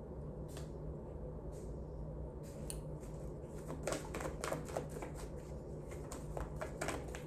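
A deck of cards being handled and shuffled: a few light clicks at first, then a quick, dense run of card clicks from about four seconds in, over a low steady hum.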